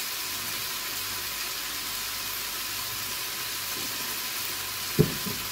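Diced potatoes and onions sizzling steadily in a stainless steel pot on the hob, an even hiss. A single short knock near the end.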